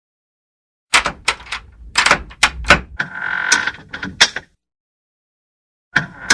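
Door being worked on its hinges: a quick run of sharp clacks and knocks with a short squeak from the hinge in the middle, then a few more clacks near the end.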